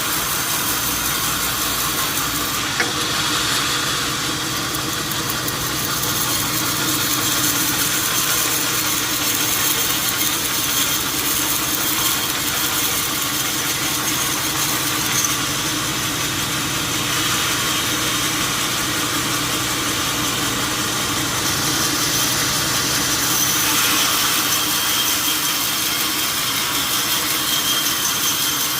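A machine running steadily, a continuous mechanical noise that holds at much the same level throughout.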